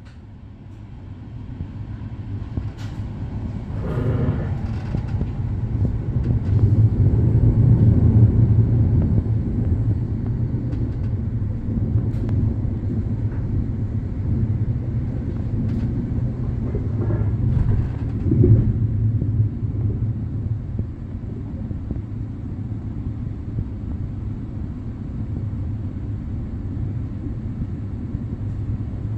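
Passenger train running: a low rumble that builds over the first several seconds, then holds steady, with a few short knocks along the way.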